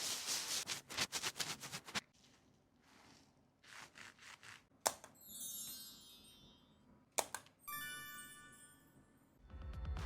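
Packaging being handled, with rustling and quick clicks of a makeup box, then two sharp clicks each followed by a high, ringing chime. A bass-heavy electronic music track comes in at the very end.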